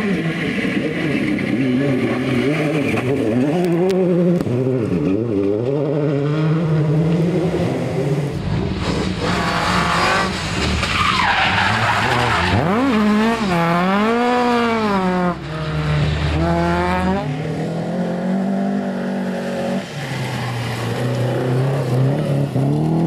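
Rally cars driven hard on stage, engines running near full throttle with the revs climbing and dropping through gear changes. In the middle there is a spell of loud tyre and loose-surface noise, followed by the revs swinging rapidly up and down for a few seconds.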